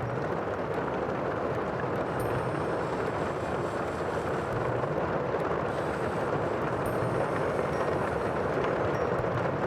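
Sea waves: a steady, continuous wash of surf with no single break standing out.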